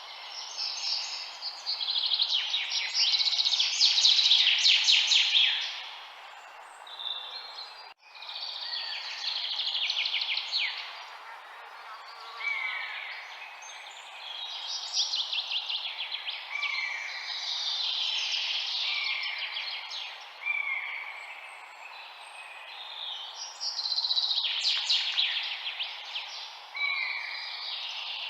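Songbirds singing a run of repeated phrases, fast trills mixed with short downward-sliding whistled notes. A steady soft hiss of background noise runs beneath them, and the sound drops out briefly about eight seconds in.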